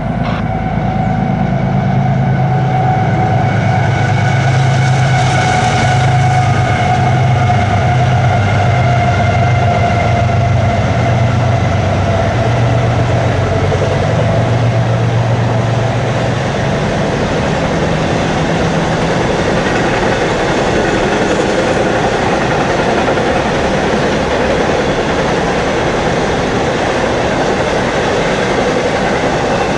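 Train passing: a locomotive's engine drones for about the first sixteen seconds, then the steady rumble and clatter of the rail cars rolling by continues.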